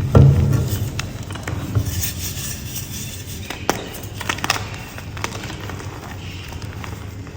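A block of gym chalk being crushed and crumbled, with a heavy thump right at the start and then crackling and scattered sharp cracks as it breaks apart.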